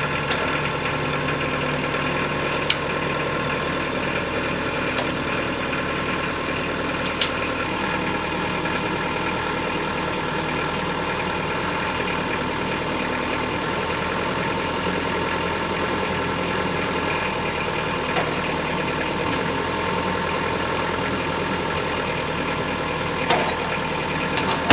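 Engine of a fork-equipped machine running steadily as its forks roll a heavy hickory log, with a few light clicks over the top.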